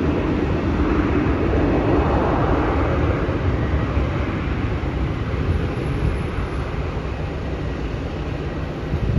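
Jet airliner engine noise at an airport, a steady rumble that swells a second or two in and then slowly fades.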